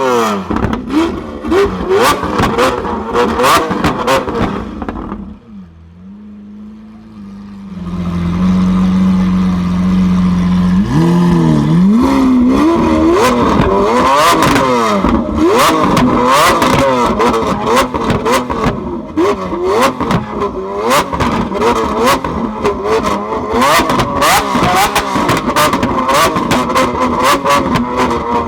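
Lamborghini Aventador V12 through a Capristo aftermarket exhaust, blipped repeatedly in quick, loud revs with sharp popping and crackling on the overrun. About five seconds in it settles to a lower steady idle for a few seconds, then the repeated revving and popping resumes.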